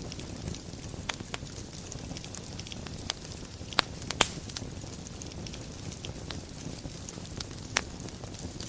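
Wood fire burning in a fireplace: a steady low rumble and hiss with scattered sharp crackles and pops, the loudest a quick pair about four seconds in and another near the end.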